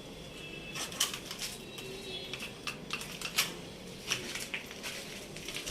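Irregular sharp metal clinks and knocks, about a dozen over a few seconds, some ringing briefly, from steel shuttering being taken down.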